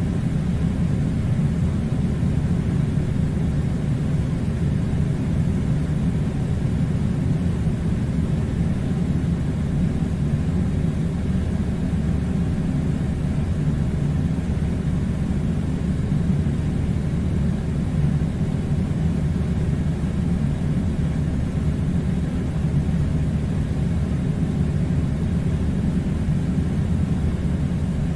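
Steady low rumbling noise that does not change.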